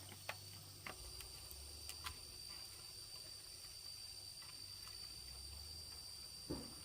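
Steady high-pitched drone of insects, such as crickets, with scattered sharp clicks and taps and a single low thump near the end.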